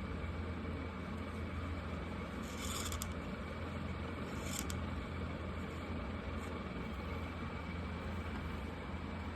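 A few short scratchy marker strokes on paper, about three seconds in, again near the middle and once more a little later, over a steady low background hum.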